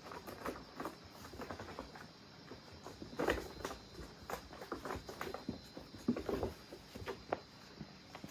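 Cats playing: irregular soft taps, scuffs and rustles of paws and bodies scrambling on a surface, with a louder knock about three seconds in and another about six seconds in.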